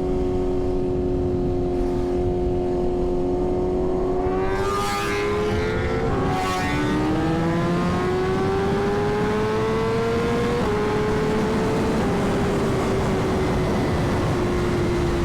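Sport motorcycle engine at speed heard over heavy wind noise, its pitch climbing slowly, then dropping in two steps and easing down. Two brief whooshes come about five and six and a half seconds in.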